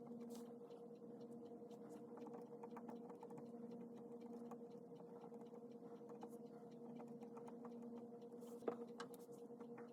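Faint pen scratching and small taps of writing by hand on paper, over a steady low electrical hum; one sharper click a little before the end.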